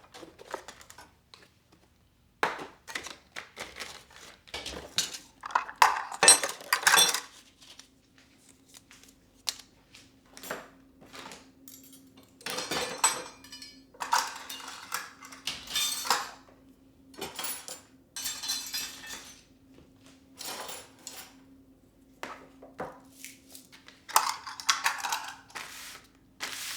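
Kitchenware being handled: dishes, jars and utensils clinking and knocking as they are picked up and set down, with a few short rustling or sliding noises. A faint steady hum sets in about seven seconds in.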